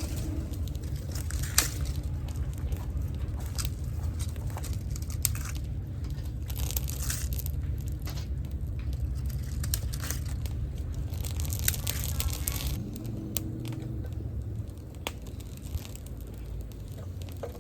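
Rustling and crunching of dry fire-lighting material, such as crumpled paper and small twigs, handled while a campfire is laid and lit, with scattered sharp snaps. A steady low rumble lies underneath.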